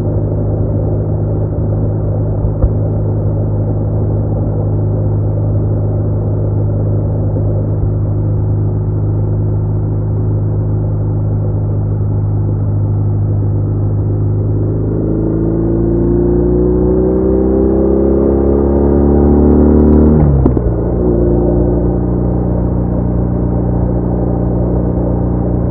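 Motorcycle engine running steadily while riding. About 15 s in its revs climb for several seconds, then drop sharply around 20 s, like a gear change, and it settles back to a steady note.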